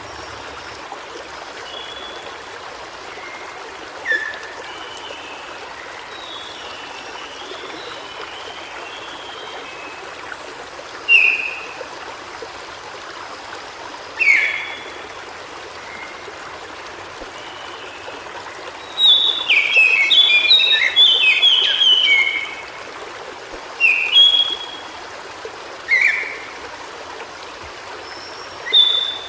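White-browed shortwing singing over the steady rush of a stream. Single short notes that slide down in pitch come every few seconds. About two-thirds of the way through there is a rapid, jumbled warble lasting about three seconds.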